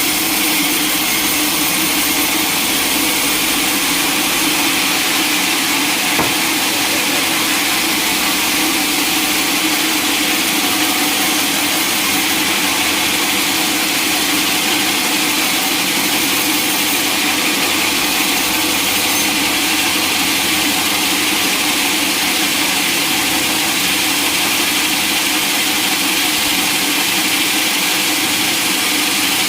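Sawmill machinery running steadily, a constant high hiss over a low hum, with a single click about six seconds in.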